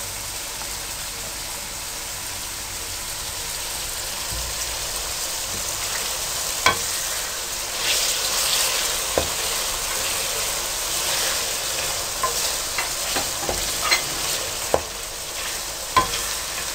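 Oil sizzling steadily on high heat as boneless chicken pieces and onion fry in an aluminium karahi, with a spatula stirring and knocking sharply against the pot several times in the second half.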